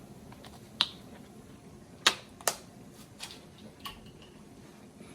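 A stirring utensil knocking against the pot about five times, irregularly, while cream is stirred into a flour roux; the loudest two knocks come close together about two seconds in.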